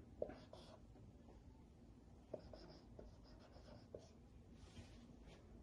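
Faint pen-on-paper writing: a few light taps and a short stretch of scratching near the end.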